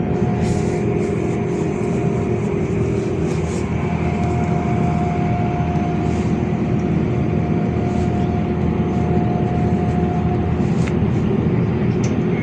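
LiAZ 5292.65 city bus under way, heard from inside the passenger cabin: a steady engine and road rumble with a thin whine that stops near the end, and light rattles.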